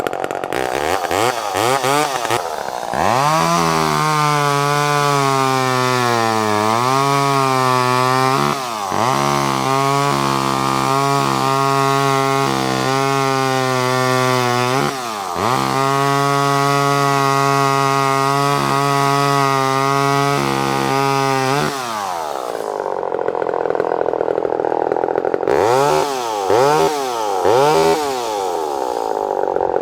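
Vintage Homelite Super EZ Automatic two-stroke chainsaw being revved and held at high speed while cutting wood, with brief dips in engine speed. Near the end it drops back to idle with a few short blips of the throttle.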